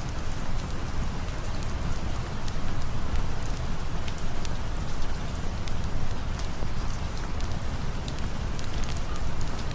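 Steady rain, an even hiss with a low rumble beneath and scattered sharp ticks of drops.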